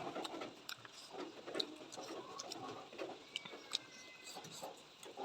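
Close-miked eating sounds: a person chewing food, with irregular wet clicks and smacks of the mouth.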